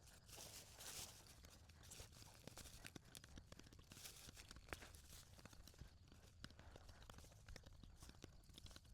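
Faint rustling, crunching and scraping of garden soil and potato plants being dug through, with scattered small clicks and a couple of brief hissy scrapes.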